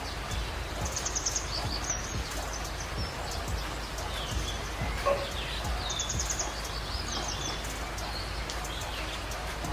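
Small birds chirping, with quick high trills and short gliding whistles, over a steady low rumble. A single short click comes about five seconds in.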